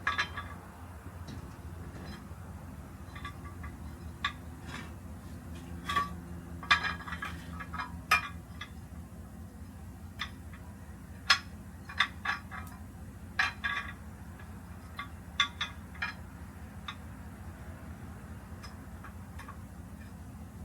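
Scattered metallic clinks and clicks of hand tools and brake parts being handled during truck brake work, irregular and some fairly sharp, over a steady low hum.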